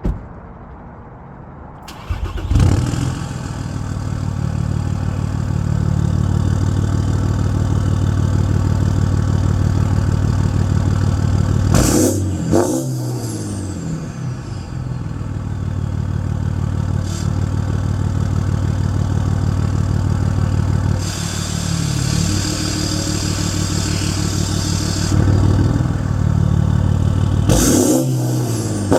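2013 Volkswagen Touareg's V6 TDI diesel, straight-piped with its catalysts and particulate filter deleted, starting about two seconds in and then idling. It gives a sharp rev about twelve seconds in and another near the end, each dropping quickly back to idle.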